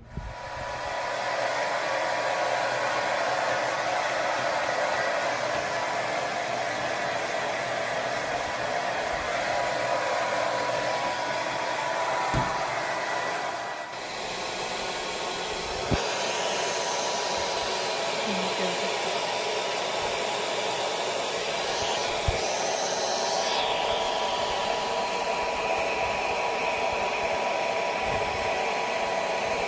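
Hair dryer switched on and running steadily while blow-drying a dog, a steady rush of air with a faint whine. It dips briefly about halfway through, and a few short knocks come through.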